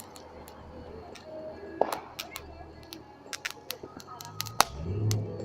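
Firework crackling: a string of sharp, irregular cracks and pops, several a second, starting about two seconds in. A low steady hum builds near the end.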